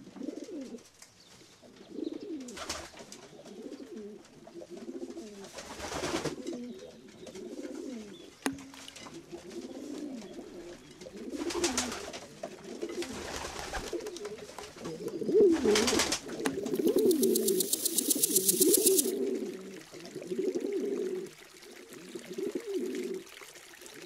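Pigeons cooing over and over in low, warbling calls. A few brief hissing sweeps cut across them, and a fast high rattle sounds for a couple of seconds past the middle.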